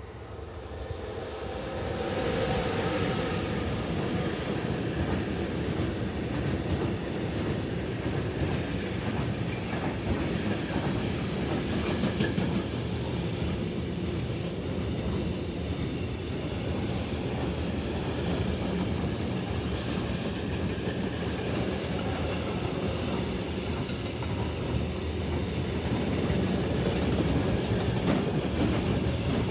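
A Class 186 TRAXX electric locomotive passing, getting louder over the first two seconds, followed by a long container freight train rolling by with a steady rumble and the clickety-clack of wheels over the rail joints.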